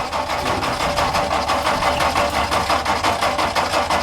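1962 Ford F-350 engine running on gas poured into the carburettor, with a quick, even pulsing beat.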